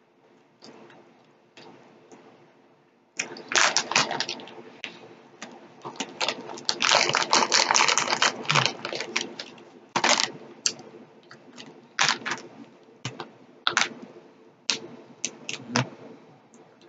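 Close-up eating sounds of chewy peach gummi rings, with many sharp, wet mouth clicks. In the middle there are a few seconds of dense crinkling from the plastic candy bag.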